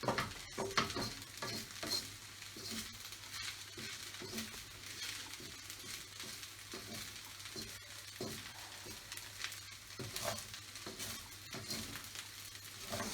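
Fried rice sizzling in a hot pan as it is stirred and tossed, with irregular scrapes and knocks of the utensil against the pan, a cluster of them just after the start and another about ten seconds in.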